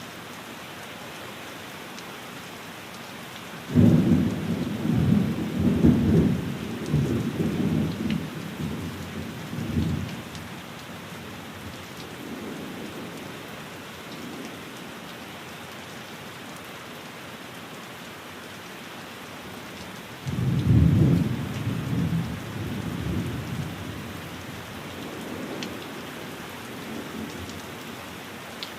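Steady rain falling on a window, with two low rolls of thunder. The first starts suddenly about four seconds in and rumbles for about six seconds; the second, slightly shorter, comes about twenty seconds in.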